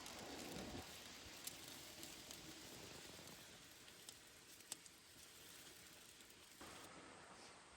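Faint, steady hiss of rain with a few sharp ticks. The sound changes abruptly near the end.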